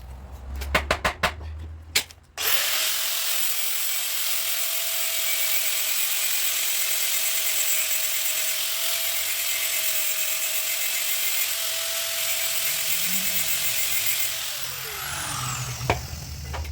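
A few sharp knocks, then a handheld power tool's motor switches on and runs at a steady high speed for about twelve seconds. Near the end it is released and winds down, its pitch falling.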